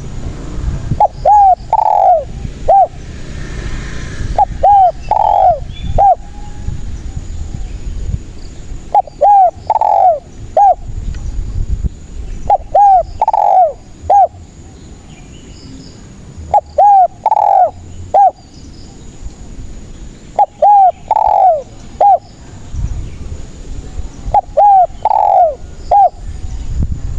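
Spotted dove (tekukur) cooing: seven repeated phrases, one every three to four seconds, each a few short coos around one louder, drawn-out note.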